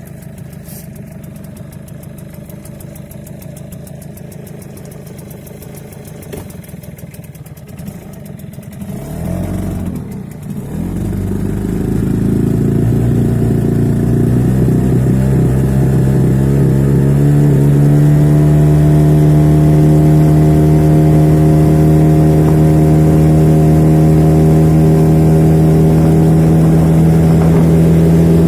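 Hangkai 6 hp outboard motor running at low throttle, then opened up about ten seconds in; its pitch climbs for several seconds as the boat gets up on plane, then holds steady at high revs.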